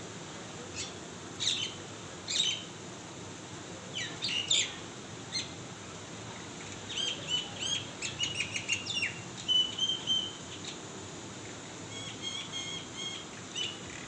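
Birds chirping from a tree: a few sharp separate chirps at first, then a quick run of notes about seven seconds in, a short held whistle, and a softer repeated phrase near the end.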